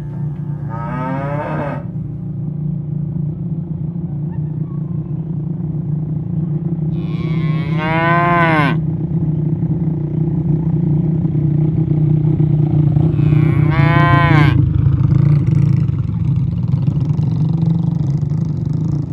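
Cattle mooing: three calls, a short one about a second in, a longer one around eight seconds in, and another around fourteen seconds in, over a steady low drone.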